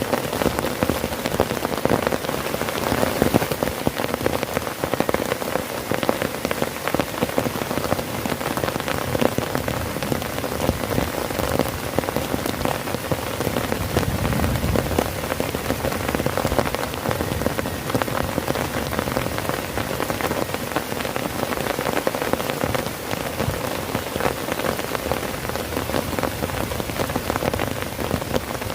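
Heavy rain falling steadily on a tent, a dense even hiss with many individual drop hits.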